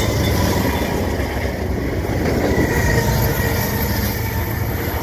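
Several diesel-electric freight locomotives of a CN train passing close at speed, engines running with a heavy low rumble over the steady clatter of wheels on rail. A faint thin whine sits above it.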